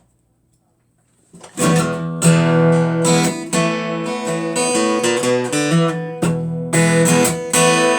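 Near silence for about a second and a half, then a strummed acoustic guitar starts a song's introduction, playing steady chords with one short break.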